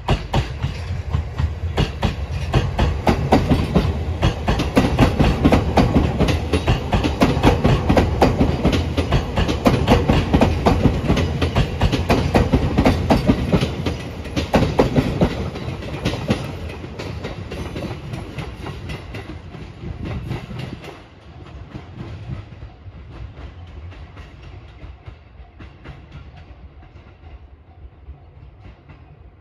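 Five-car JR East E257-500 series limited express electric train running past, its wheels clacking quickly and steadily over the rail joints. The sound is loud for the first half, then falls away in steps as the train moves off, and is faint near the end.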